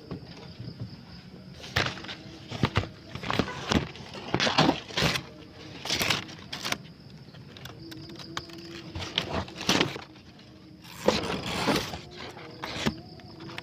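Dry leaves and twigs rustling and crackling in irregular bursts, with a short lull about two thirds of the way through.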